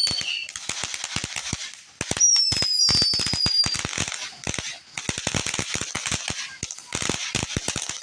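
Fireworks crackling in dense, rapid pops, with high falling whistles at the start and again about two seconds in.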